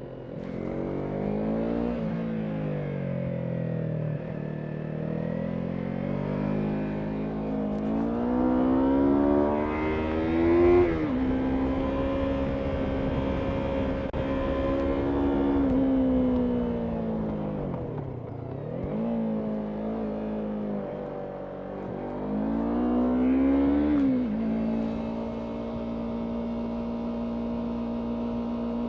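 Yamaha MT-03 motorcycle engine heard from on the bike, revving up through the gears. The pitch climbs, then falls sharply at a shift about eleven seconds in, holds steady, and drops away as the throttle is closed. It climbs again to another shift near 24 seconds and settles into a steady cruise.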